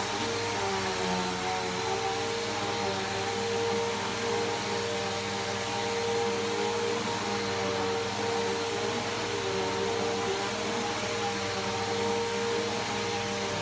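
Bissell Powerforce Helix Turbo upright vacuum cleaner running steadily while vacuuming a rug: a constant motor whine over a rush of air.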